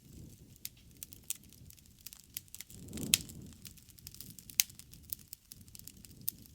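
A wood bonfire burning: irregular sharp pops and crackles over a low rumble of flame, with a louder whoosh of flame about three seconds in carrying the loudest pop, and another loud snap a second and a half later.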